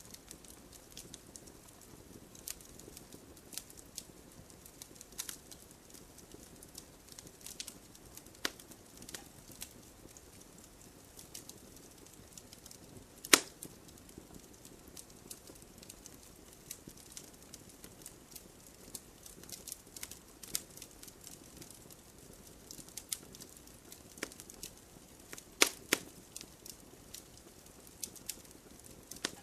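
Campfire crackling: wood burning with scattered sharp pops and snaps over a soft low hiss, one loud pop about halfway through and a quick pair of loud snaps near the end.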